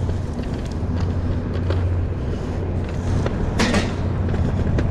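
Electric scooter riding over pavement: a steady low hum with wheels rattling and clicking over the ground, and a louder rattle about three and a half seconds in.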